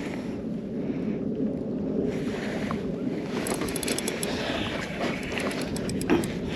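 Water lapping against a kayak's hull with wind on the microphone, and a run of small clicks and taps from about halfway through.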